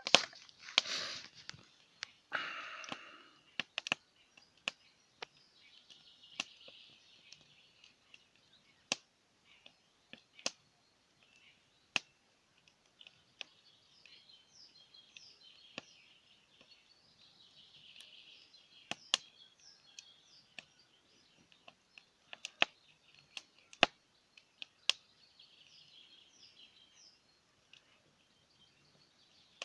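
Wood campfire crackling, with sharp pops at irregular intervals, and faint bird chirps in the background. Two short hissing rushes in the first three seconds.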